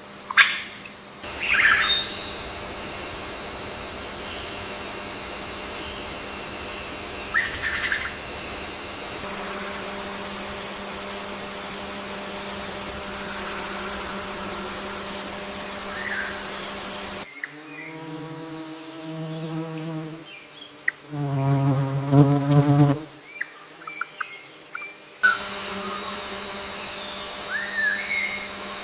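Forest ambience: a steady high insect drone with scattered bird chirps. About two-thirds of the way through it changes to a few low, pitched calls, followed by more bird chirps.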